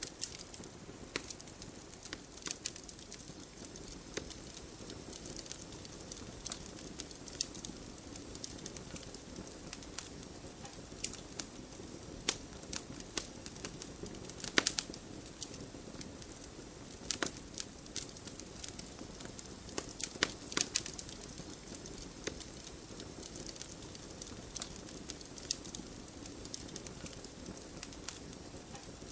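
Wood fire burning in a fireplace, crackling with irregular sharp pops over a steady low hiss. The loudest pops come about halfway through and again around two-thirds of the way in.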